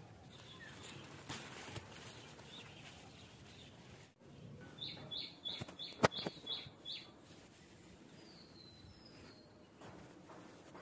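Birds calling outdoors: a quick run of about eight short high chirps, then a few falling whistled calls. Partway through the chirps, a single sharp snip of pruning shears cutting a gourd stem is the loudest sound.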